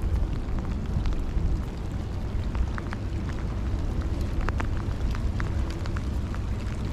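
Wind buffeting the microphone in a steady low rumble, with scattered raindrops ticking irregularly.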